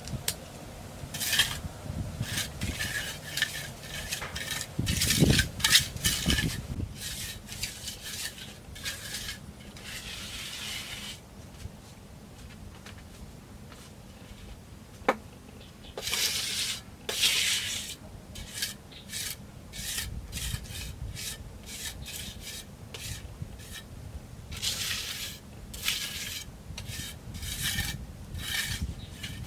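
Repeated short rasping strokes of a hand tool working wood or bamboo, in runs with a pause of a few seconds about halfway through and a single sharp click during the pause.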